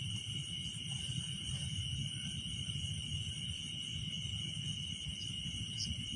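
Crickets trilling in a steady, unbroken high-pitched chorus at night, over a low rumbling noise.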